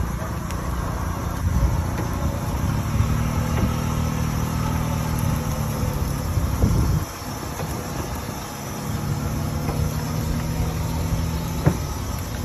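Large steam tractor running with a steady low hum, dipping briefly about seven seconds in before picking up again.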